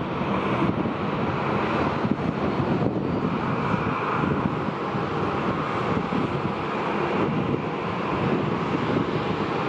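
Jet airliner engines running, a loud steady rumble, with wind buffeting the microphone.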